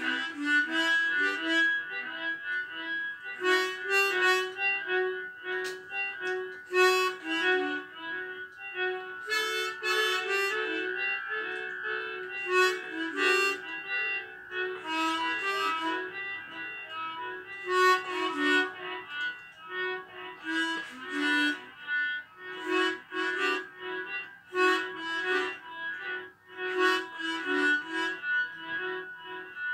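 Solo harmonica playing a slow, ambient melody of short notes with some longer held notes.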